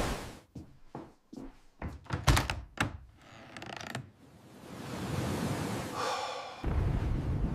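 A heavy thump, then a run of sharp knocks and clatters. Rushing wind noise then swells and turns into a loud low rumble near the end.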